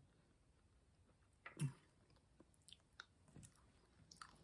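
Faint mouth sounds of a person chewing food: a few soft, scattered clicks and smacks, with one slightly louder short mouth sound about a second and a half in.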